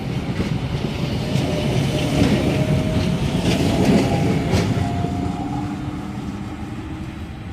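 Sydney Trains S set electric train pulling out of the station, wheels clicking over rail joints under a low rumble with a faint motor whine. It builds to its loudest about four seconds in, then fades as the train draws away.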